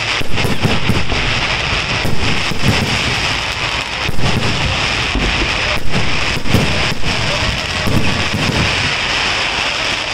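Fireworks display: a continuous dense crackle and hiss, with irregular bangs of aerial shells bursting overhead, the loudest about 4 and 6 seconds in.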